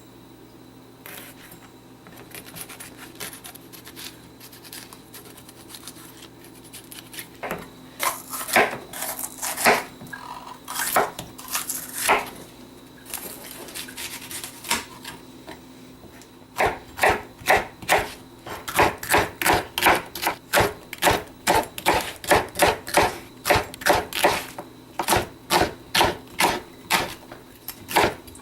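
Knife chopping vegetables on a cutting board. A few spaced cuts come first, then from about halfway a steady run of chops, two to three a second.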